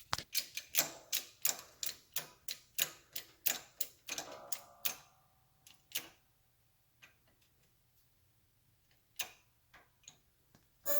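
Light, quick taps of metal on metal, about three or four a second for five seconds with a short ring around four seconds in, then a few scattered taps: a new oil seal being tapped into its bore in a Triumph Trident's engine case to sit it flush and centred.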